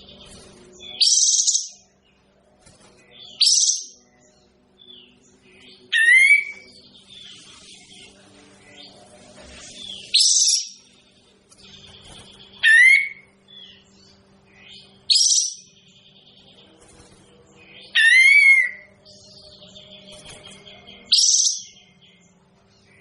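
Kapas tembak bulbul giving short, loud, sharp calls about every two to three seconds, several of them sliding quickly down in pitch. A steady low hum runs underneath.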